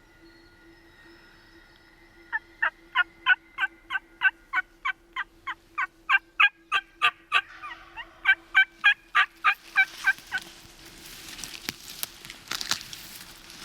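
A loud, fast run of turkey yelps, about three a second for some eight seconds with a short break near the middle, each note dropping in pitch. Near the end, rustling with a few clicks.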